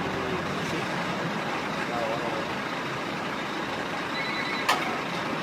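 Steady road and engine noise of a moving truck, with a brief high beep about four seconds in and a sharp click just before the end.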